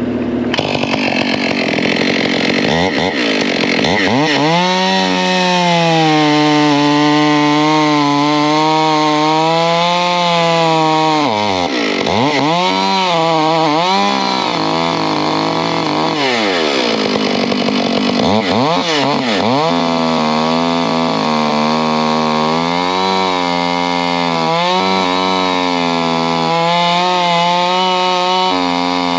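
Gas chainsaw cutting free wood jammed in an excavator, the engine running at high revs under load. Near the middle the revs drop and climb back three times as the throttle is let off and squeezed again.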